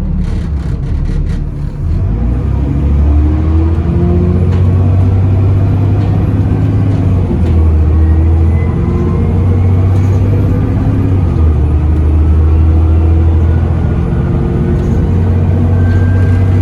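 Bus diesel engine heard from on board, pulling hard and climbing in pitch, dropping back at gear changes about 2, 7 and 11 seconds in, with a thin, steady high turbocharger whistle above it. A few sharp clicks near the start.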